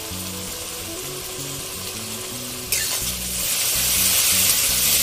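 Onions and spice pastes sizzling in hot oil in a metal kadai, over soft background music. A little under three seconds in, a metal spatula starts stirring and the sizzle gets suddenly louder.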